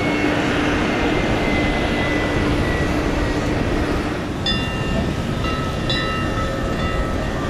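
KC-46A tanker's turbofan engines running as it taxis: a loud, steady rush with a low hum that fades over the first few seconds. A few held high tones come in about halfway through.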